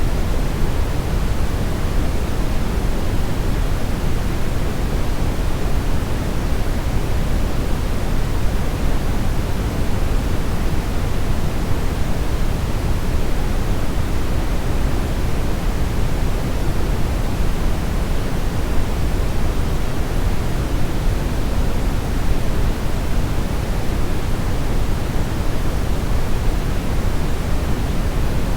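Steady synthetic brownish noise: an even, unbroken rumbling hiss, strongest in the low end.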